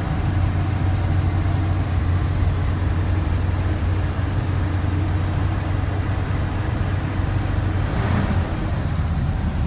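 1955 Chevrolet 3200 pickup's engine idling steadily just after a cold start, choke partly pulled, while it warms up.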